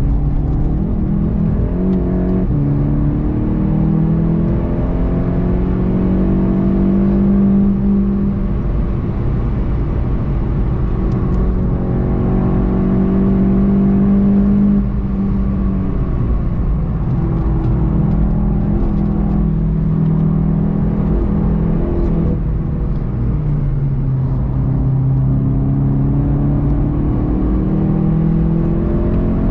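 VW Golf 7 GTI TCR's turbocharged 2.0-litre four-cylinder engine pulling hard from inside the cabin, its pitch climbing through the revs and falling back several times as the car gathers speed.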